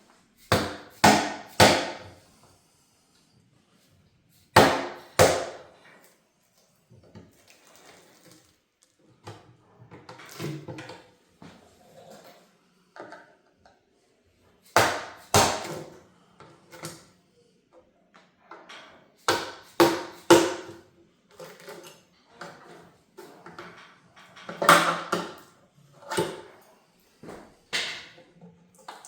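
Hand tools and engine parts clanking and knocking during an engine teardown: irregular clusters of sharp knocks and clatters, with the loudest near the start, about five seconds in, around fifteen and twenty seconds, and about twenty-five seconds in, and softer handling noises between them.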